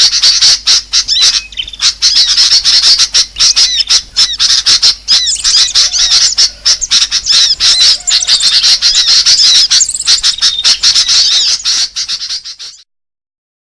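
Bird-lure recording that mixes the calls of many kinds of small birds: a dense, loud chatter of rapid chirps, trills and squawks overlapping one another. It cuts off suddenly near the end.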